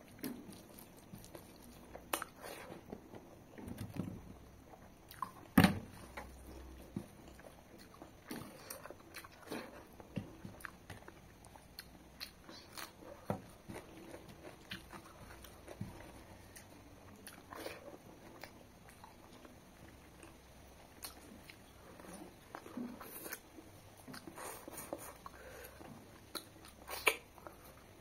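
Close-up mouth sounds of a person eating mutton curry and rice by hand: scattered wet chewing and smacking clicks, with one sharp, louder click about five and a half seconds in.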